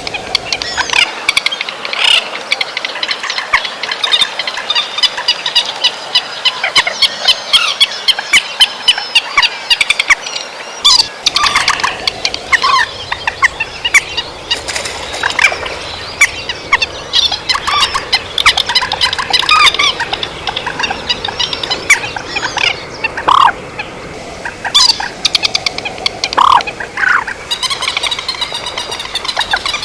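Trích ré birds calling as a flock, played as a trapping lure recording. Many short, sharp calls and chirps crowd together in a continuous chatter. Longer falling calls come in from time to time.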